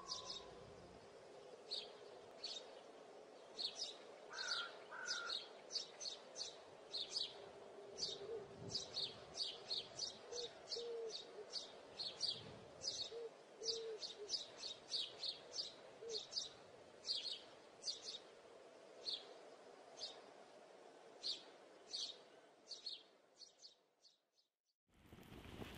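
Faint birds chirping: many short, high chirps at an uneven pace, with a few short lower calls in the middle stretch. The chirping fades out near the end.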